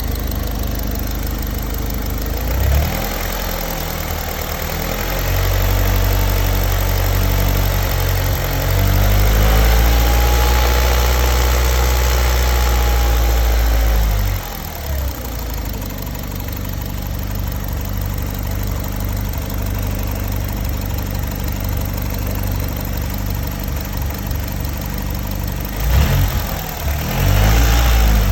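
Honda Civic's D17A2 1.7-litre four-cylinder engine idling, then revved up about three seconds in and held at a raised speed for several seconds before dropping back to idle. Near the end it is blipped up quickly a couple of times. This is the engine being run for a vacuum-gauge test for a suspected restricted exhaust.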